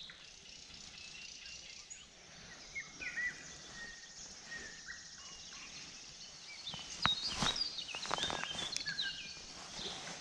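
Songbirds singing in the riverside trees: a series of short whistled notes and quick chirps over a faint steady outdoor hiss. A cluster of sharp clicks and knocks comes about seven to eight seconds in.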